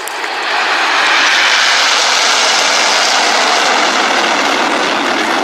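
Red Arrows' BAE Hawk jets flying past in formation: a loud rushing jet noise that swells over the first second and then holds steady.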